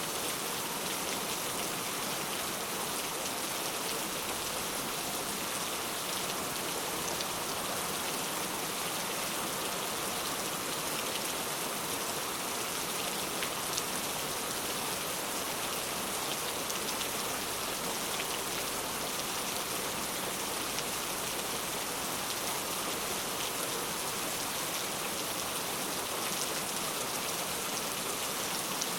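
Steady rain falling, an even hiss with faint droplet ticks scattered through it.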